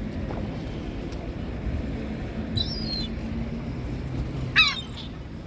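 Gulls calling over a steady low background rumble: a short, high call about two and a half seconds in, then a louder call of quick falling notes about four and a half seconds in.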